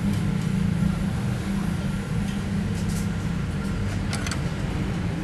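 Steady low mechanical hum, with a couple of short sharp clicks about three and four seconds in.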